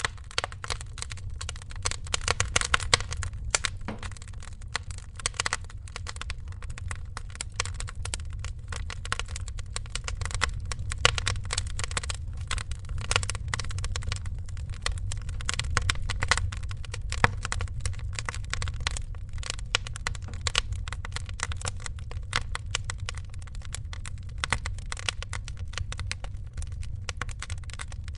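Wood fire crackling in a fireplace: dense, irregular crackles with occasional louder snaps over a low, steady rumble.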